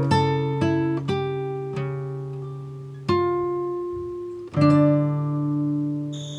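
Acoustic guitar music: slow plucked notes and chords that ring and fade, with stronger strums about three seconds in and again past four seconds. Near the end a steady high cricket trill starts.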